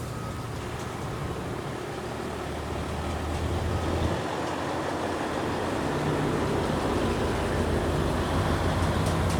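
Steady low rumble of vehicle traffic, with an engine hum growing a little louder in the second half.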